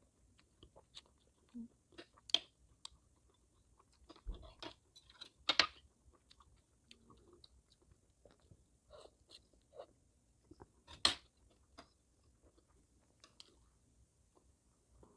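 Close-up chewing of silkworm pupae, with soft wet mouth clicks and smacks. A few sharp, louder clicks stand out, about two and a half, five and a half and eleven seconds in.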